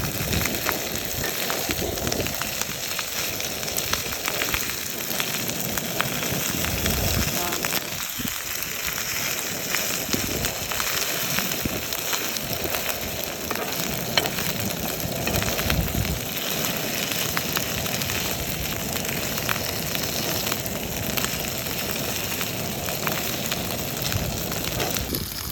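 Food frying in a hot pan, sizzling steadily with many small pops and crackles.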